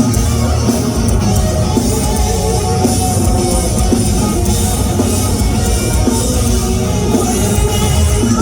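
Live rock band playing loud and steady, with distorted guitars, bass and a driving drum kit, as heard from within a concert crowd.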